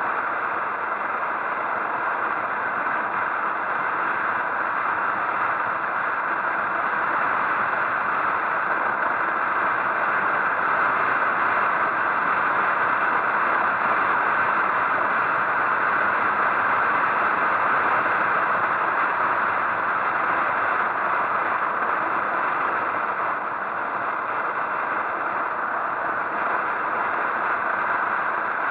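Steady rushing noise of a motorcycle ride, picked up by a camera on the bike or the rider: wind and road noise with no clear engine note, holding even throughout.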